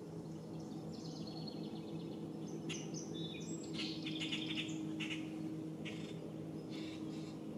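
Birds calling: several short bouts of high, rapid chirps and trills, over a steady low hum.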